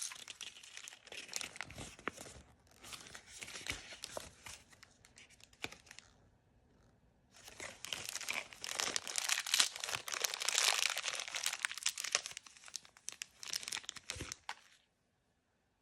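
Plastic blind-bag packaging being torn open and crinkled by hand, in two spells with a short pause about six seconds in, the second spell louder. It stops a second before the end.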